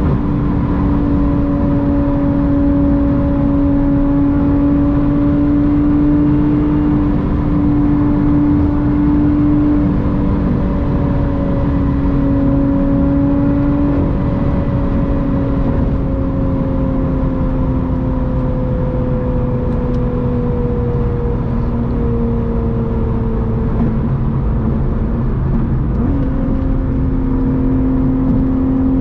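Lotus Evora GT's supercharged 3.5-litre V6 through a titanium exhaust, droning at steady cruising revs over a low road rush. Its pitch sags slowly over about ten seconds, then steps back up near the end.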